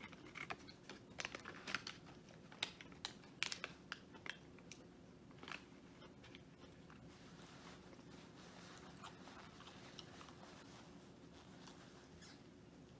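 Crunching of crispy fried breading being bitten and chewed close to the microphone: a quick run of sharp crunches over the first five or six seconds, then only faint chewing.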